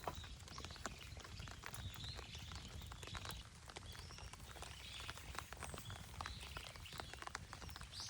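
Small birds chirping in short calls, over many small irregular ticks and crackles and a low steady rumble.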